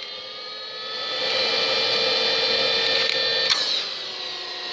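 Shop vac motor whining as its hose is held over the number 3 exhaust port of a rebuilt motorcycle cylinder head; the sound grows louder and the pitch shifts about a second in as the port seals, the sign that the new exhaust valve is not leaking. About three and a half seconds in it drops back, with a click.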